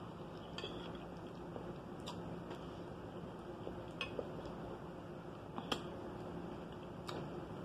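A person chewing food close to the microphone: soft eating sounds with about five short, sharp mouth clicks spaced a second or two apart.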